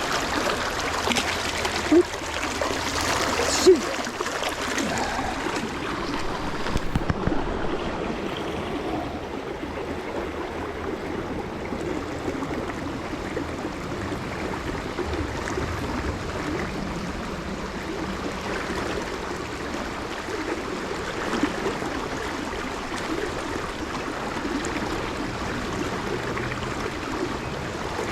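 Stream water flowing and trickling steadily, with a brief sharp knock about two seconds in.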